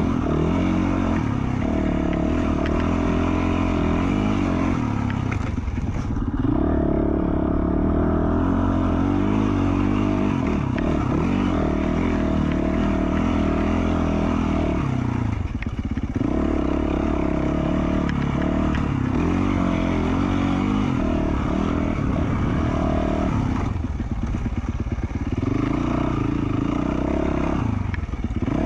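2020 Yamaha YZ450F's single-cylinder four-stroke engine, fitted with an FMF Q4 slip-on muffler, running under load while being ridden, its pitch rising and falling with the throttle. The throttle eases off briefly about six seconds in, again around fifteen seconds, and near twenty-four seconds.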